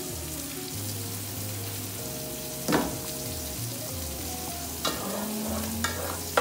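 Chicken frying in a pan with a steady sizzle. About three seconds in a pot is set down on the counter with a clunk, and near the end a utensil knocks against the pot a few times as the noodles are stirred.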